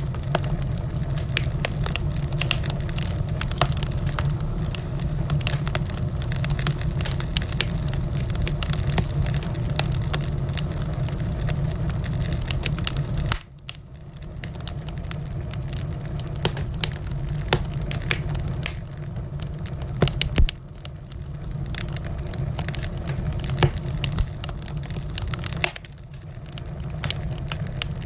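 Wood fire crackling in a fireplace: many small sharp pops and snaps over a steady low rumble of the flames, with a few louder pops. About 13 seconds in the rumble drops away abruptly, then builds back.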